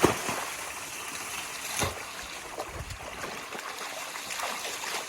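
Steady rush of water in a mud swimming pool, with two sharp knocks or splashes, one at the start and one just under two seconds in.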